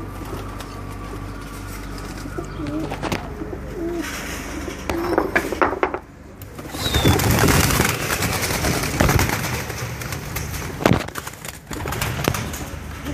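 Domestic pigeons cooing in low, wavering notes, followed about halfway through by a louder rustling noise with sharp knocks.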